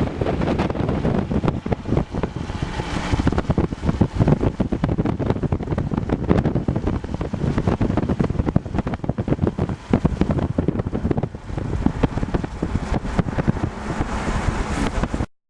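Wind buffeting the microphone from a moving car with its window open, over the rumble of the car on the road. It cuts off abruptly near the end.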